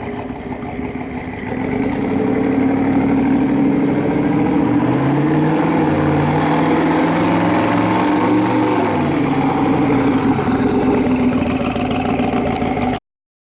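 A 1956 Chevrolet 210's engine running. It gets louder about two seconds in, rises in pitch through the middle and falls back again, then cuts off abruptly near the end.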